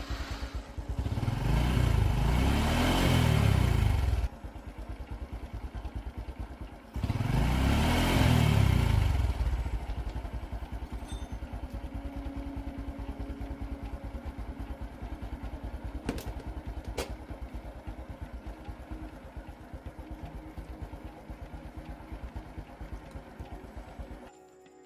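1980s Honda motorcycle engine revved up twice, rising and falling in pitch each time, settling back to a steady pulsing idle between and after the revs; it cuts off suddenly near the end.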